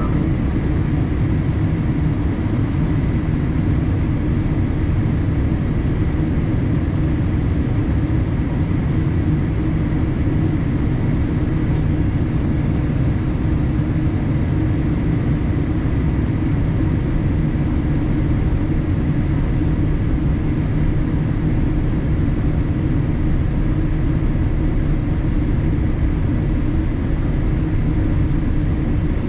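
Steady low drone of engines and airflow heard inside the cabin of a Boeing 787-8 airliner, even and unchanging throughout.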